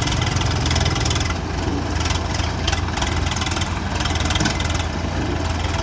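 Swaraj tractors' diesel engines running with a steady, loud low drone.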